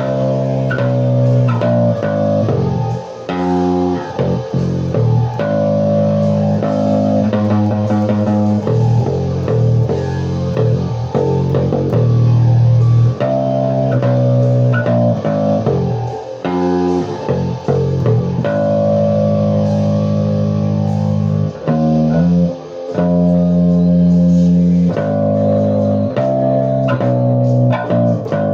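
Guitar music: plucked guitar and bass playing a riff of held notes that change every second or so, without much percussion.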